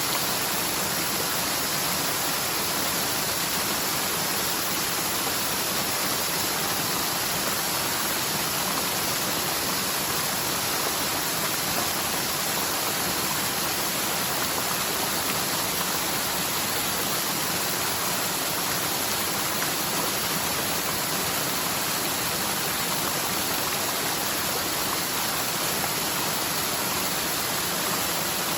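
Rain-swollen mountain stream rushing steadily down a forest slope after a typhoon, its usually near-dry bed carrying heavy runoff. An unbroken, even rush of water.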